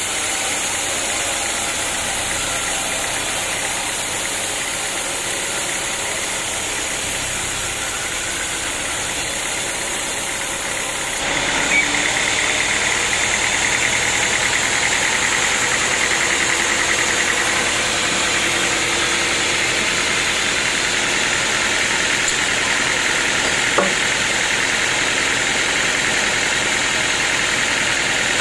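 Sawmill machinery running with a steady mechanical drone. About eleven seconds in the sound shifts abruptly and gets a little louder, and there are two short sharp knocks, one soon after the shift and one near the end.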